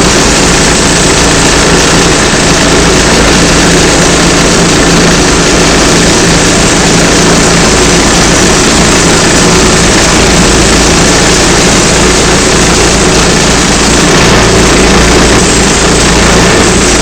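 Band sawmill running: its engine drones loudly and steadily at a constant speed, with no break or change.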